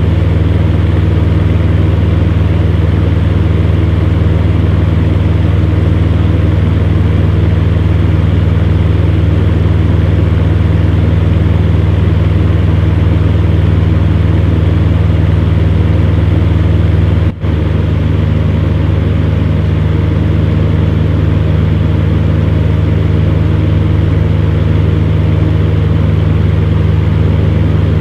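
Electric fan running steadily: a constant low hum under an even rush of air. Partway through there is a very brief drop in level before it carries on unchanged.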